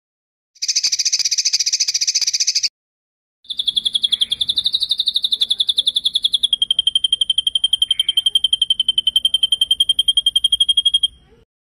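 Recorded songbird trills played for bird training: first a short, dense buzzy trill lasting about two seconds. After a brief gap comes a long, fast, evenly pulsed high trill that steps down slightly in pitch about halfway through, then stops shortly before the end.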